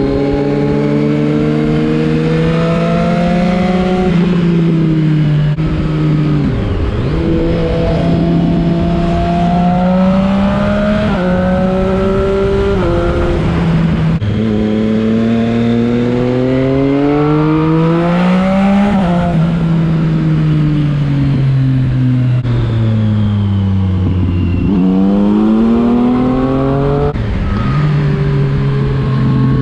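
Triumph Street Triple 675 RX inline-three engine under way. It accelerates through the gears, the pitch climbing and dropping back at each upshift, then falls off on long decelerations, with a sudden rise in pitch about 25 seconds in.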